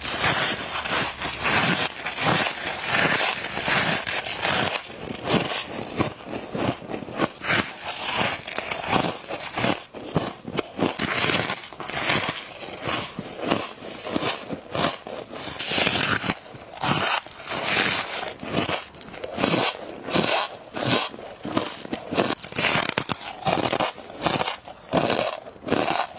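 Close-miked biting and chewing of flaky freezer frost: a long run of crisp crunches, one after another.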